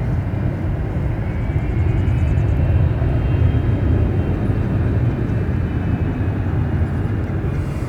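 Jet airliner engines, a loud deep steady rumble with a faint turbine whine a couple of seconds in.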